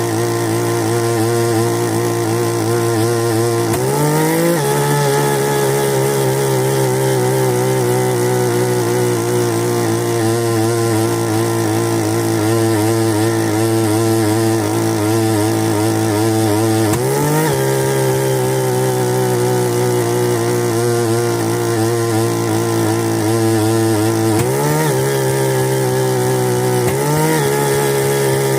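Bernard Moteurs W14 15 hp engine running steadily. Its speed briefly rises four times, about 4, 17, 24 and 27 seconds in, then settles again.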